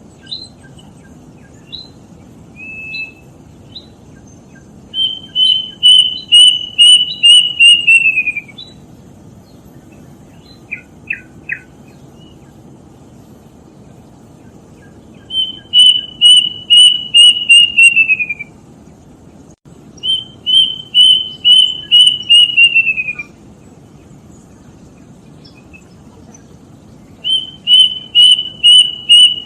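Kedasih cuckoo singing: four runs of about eight loud whistled notes at one pitch, the last few sliding down, with pauses and a few short single notes in between. A faint steady low hiss lies underneath.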